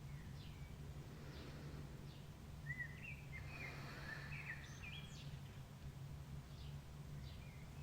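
Dawn chorus of songbirds: short, high, downward-sliding notes repeated every half second or so, with a longer warbling phrase in the middle. A low steady hum runs underneath.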